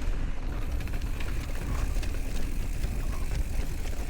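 Steady low rumble of wind on the microphone and tyre noise from a bicycle being ridden, with scattered faint ticks.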